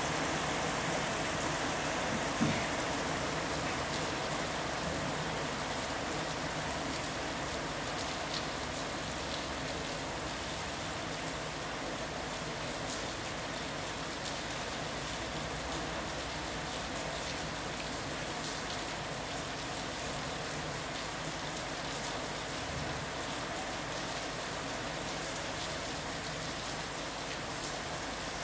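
Steady rain falling onto terracotta roof tiles and a glass canopy: an even hiss with scattered drop taps. A single knock about two and a half seconds in.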